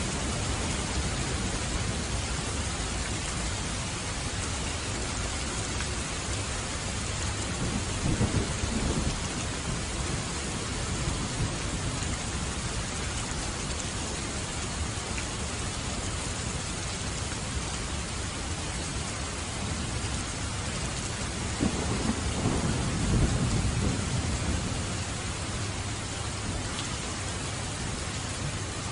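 Steady rain falling, with two low rolls of thunder rumbling through it: a short one about a third of the way in and a longer one about three quarters of the way through.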